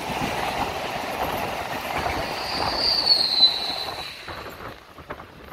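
An Eastern Railway EMU suburban train passing on the adjacent track, with steady wheel-on-rail running noise and clatter. A high, slightly falling wheel squeal sounds for about a second and a half near the middle. The running noise drops off about four seconds in as the train clears.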